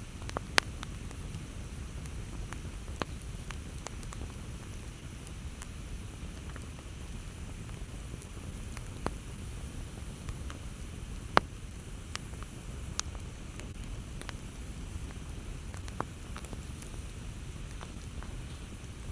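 Campfire crackling: scattered sharp pops and snaps of burning wood over a steady low rumble, with two louder pops, one about half a second in and one near the middle.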